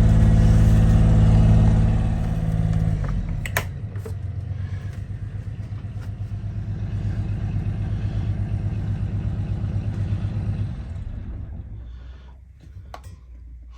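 Volvo Penta D1-30 three-cylinder marine diesel brought down from cruising revs to an even, pulsing idle after a couple of seconds, with a couple of clicks. It then winds down and stops near the end.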